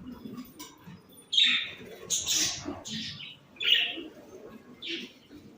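Caged pet birds calling: about five short, harsh, high chirps spread over a few seconds, over faint low rustling.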